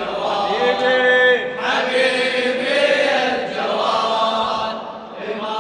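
Male voices chanting an unaccompanied Shia lament, holding long wordless notes that change pitch every second or so, as the closing refrain of the recitation.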